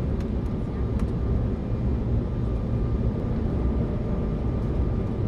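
Steady low rumble of a jet airliner in flight, with a faint steady whine above it.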